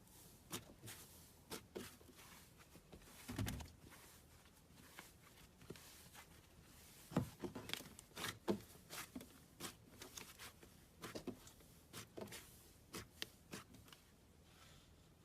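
Handling noises: irregular small clicks and soft knocks, with a longer, deeper knock about three and a half seconds in.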